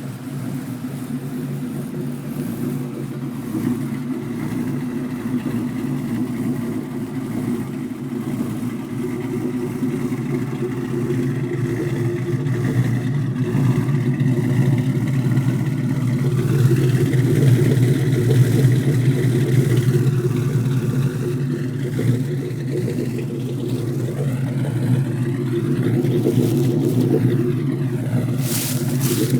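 Cammed 2003 Ford Mustang GT V8 running through BBK shorty headers, a Hooker off-road X-pipe and Spintech Super Pro mufflers: a deep steady exhaust rumble that grows gradually louder, with a short hiss near the end.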